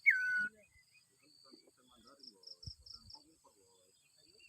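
A single loud whistled bird note right at the start, dropping in pitch, followed by faint high chirps of birds and insects, with a run of about six quick notes near the middle and a soft knock.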